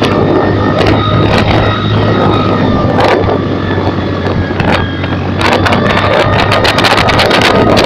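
Honda New Megapro motorcycle running through an electronic sound booster, a steady engine note with scattered sharp pops. From about five and a half seconds in comes a fast run of crackling pops.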